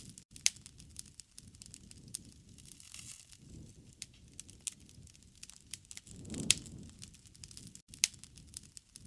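Wood fire burning, with a steady scatter of sharp crackles and a few louder pops, over a low rush from the flames that swells about two-thirds of the way in.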